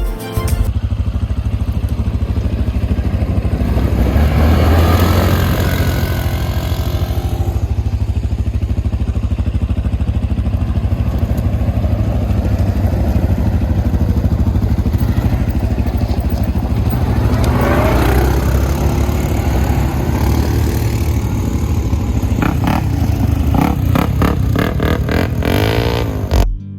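ATV engine running under throttle while riding, its pitch rising and falling a couple of times as the rider works the throttle.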